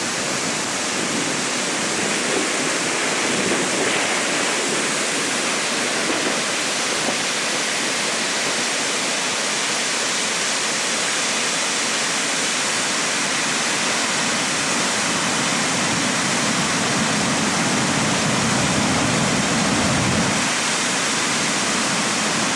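Swollen river running as a torrent after a typhoon, a steady loud rush of turbulent water. Low rumbles come and go, strongest a few seconds before the end, as of gusts or rushing water close to the microphone.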